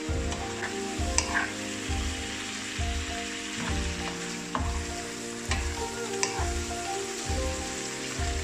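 Chicken pieces and garlic sizzling in hot oil in a frying pan, stirred with a wooden spatula, with a couple of sharp clicks. Soft background music with a steady beat runs underneath.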